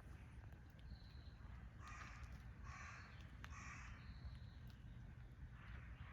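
A crow cawing three times in quick succession, harsh and rasping, about two seconds in.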